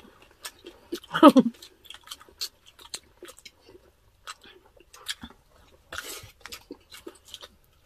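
Close-miked chewing and lip-smacking of roast meat eaten by hand, many small wet clicks, with a brief hummed murmur about a second in.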